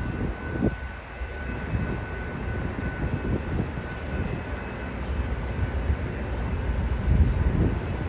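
COASTER commuter train moving through the station: a steady low rumble of the locomotive and rail cars, with irregular knocks and a faint steady high tone.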